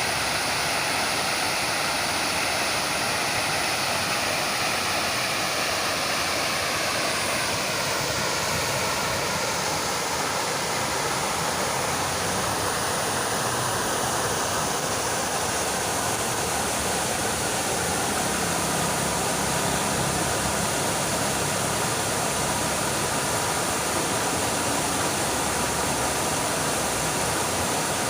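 Fountain water splashing in a steady, unbroken rush.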